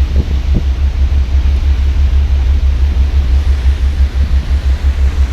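Loud, unsteady low rumble of wind buffeting the microphone on a moving ferry's open deck, with a hiss of wind and sea over it.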